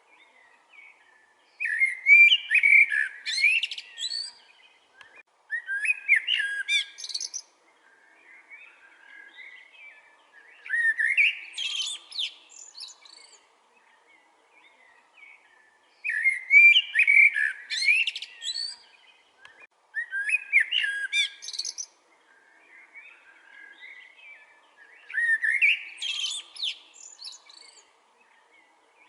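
A songbird singing a repeated song: six complex, warbling phrases of about two seconds each, spaced four to five seconds apart, with softer chirps in between.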